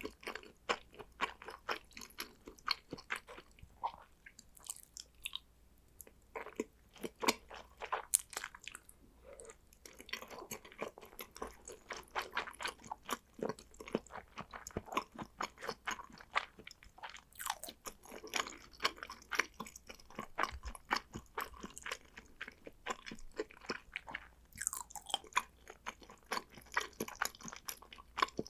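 Close-miked chewing of salmon sushi: wet mouth clicks and smacks, several a second, in an irregular rhythm with short pauses between bites.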